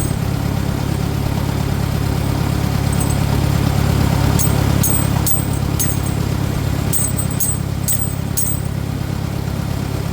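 Farmall 400 tractor engine running steadily, with a run of sharp, high clicks in the middle.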